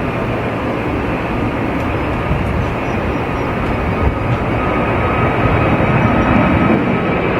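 Jet airliner engines running: a steady, loud rumble with a thin whine that grows stronger in the second half.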